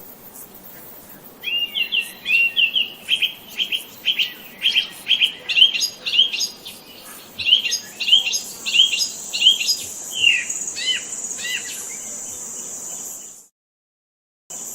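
A songbird chirping, repeating a quick high phrase of short notes, about two to three a second. About halfway through, a steady high hiss or buzz joins in. The sound cuts off suddenly near the end.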